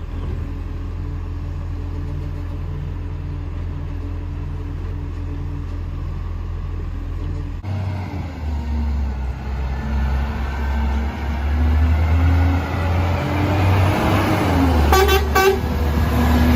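Garbage truck's diesel engine running steady, then louder and rising after an abrupt change partway through. Near the end come a few quick horn toots.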